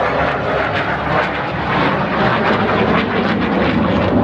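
F-16 fighter jet's single turbofan engine, a loud, steady jet noise with a crackling edge as the aircraft flies.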